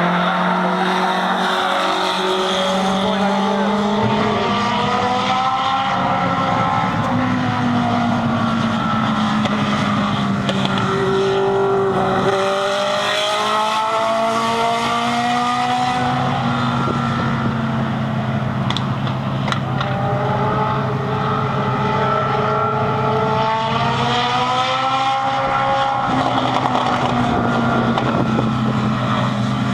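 Legend race car engine running at speed on an oval track, its pitch climbing and dropping again and again as it accelerates and eases off.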